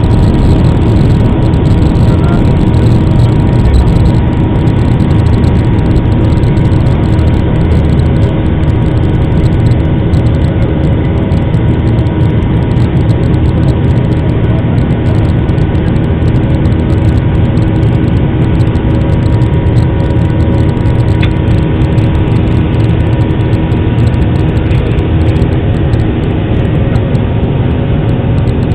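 Airliner jet engines at takeoff power: a loud, steady rush over a low rumble, with a few faint steady tones.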